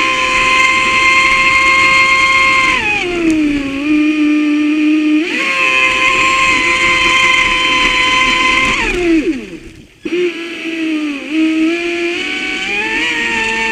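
Traxxas Spartan RC boat's brushless motor whining with the throttle: a high multi-tone whine that holds steady, drops in pitch about three seconds in, and climbs back about five seconds in. Around nine seconds it winds down steeply almost to a stop, then picks up again.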